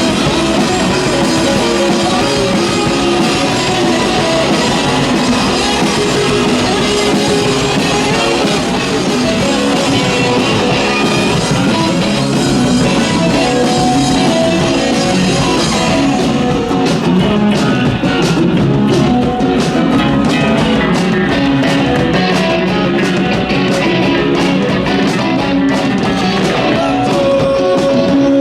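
A rock band playing live, with guitars and a drum kit. About halfway through, sharp, separate drum hits come through more clearly.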